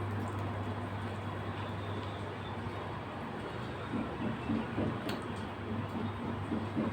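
A person chewing food close to the microphone, with uneven chewing sounds in the second half and a faint click, over a steady low hum.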